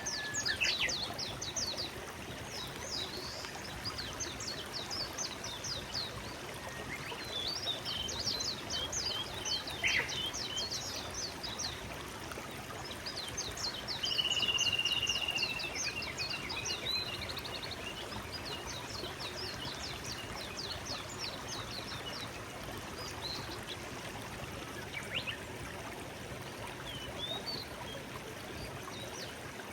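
Forest stream flowing steadily, with songbirds singing over it in repeated runs of quick, high notes and a brief held whistle about halfway through.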